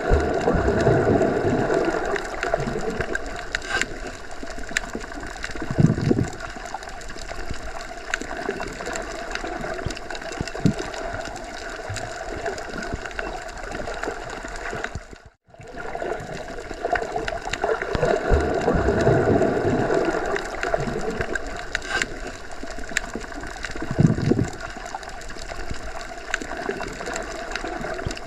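Underwater ambience as heard with the ears submerged: a continuous wash of water noise with a few louder low swells. It drops out for a moment about halfway through, and then the same stretch of sound repeats.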